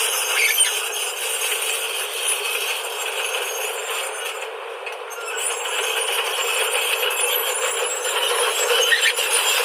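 Diesel engine of a JCB backhoe loader running steadily while it works, heard thin with no low rumble, with a few faint ticks near the end.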